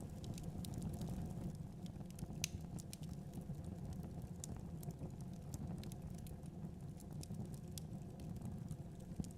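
Wood fire burning in a fireplace: logs crackling with irregular sharp pops over a steady low rumble of flames, one pop standing out about two and a half seconds in.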